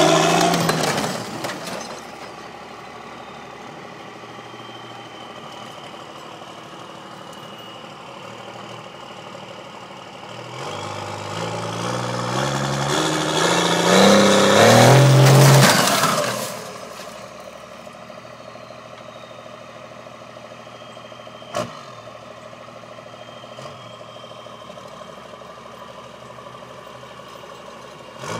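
1995 Dodge Cummins 12-valve inline-six diesel idling, with one long rev about ten seconds in. The pitch climbs over several seconds to its loudest near the middle, then falls back to idle. A rev is dying away at the very start, and there is one sharp click later on.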